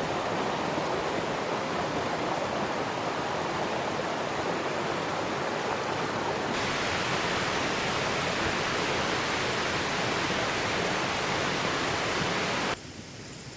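Rushing river water, a steady hiss like rapids. It turns abruptly brighter and hissier about halfway through, then drops away suddenly near the end.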